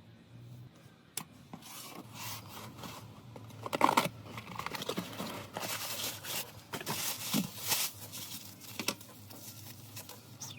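Close-up hand repair work on a cracked Samsung Galaxy Note 8: an irregular run of short scraping and handling strokes with a few sharp clicks, the loudest about four seconds in.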